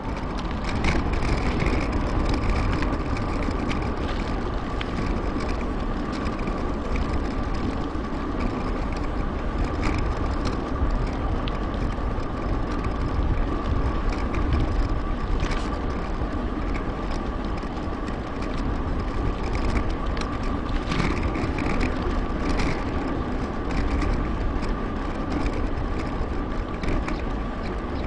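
Riding noise from a mountain bike: a steady rush of wind on the microphone, tyre and drivetrain noise, a constant high hum, and a few brief clicks.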